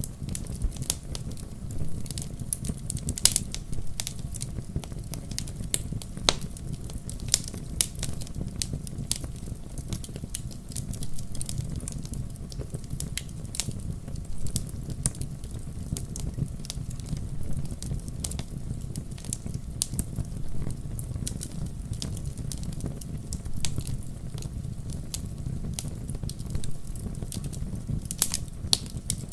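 Wood campfire burning, with sharp irregular crackles and pops over a steady low rumble of the flames.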